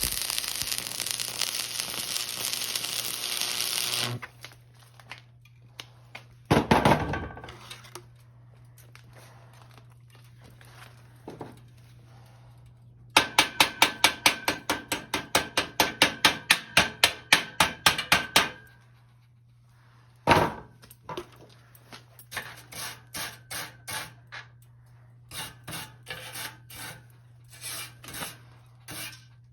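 Workshop work sounds: a loud hiss for the first few seconds, then a heavy thump, then a run of rapid even strikes with a slight metallic ring, about four a second for some five seconds, then a knock and scattered lighter clicks and knocks. A steady low hum runs underneath.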